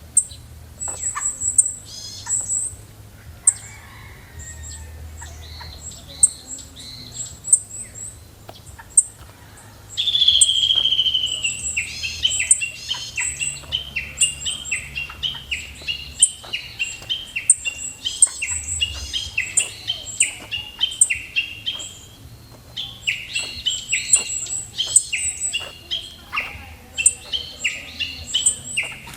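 Wild birds singing and calling, with quick high chirps throughout. About ten seconds in, a louder bird starts repeating a short falling note over and over, roughly twice a second.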